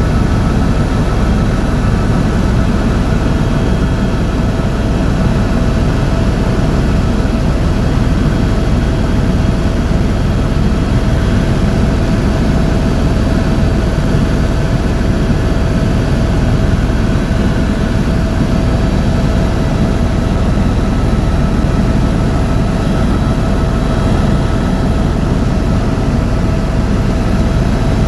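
Tour helicopter in flight, heard from inside the cabin: a loud, steady mix of turbine and rotor noise with a constant whine over it.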